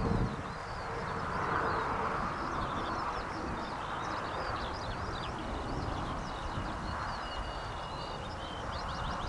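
Many small songbirds chirping and twittering continuously over a steady low rush of outdoor noise, with a thin steady whistle joining about six seconds in.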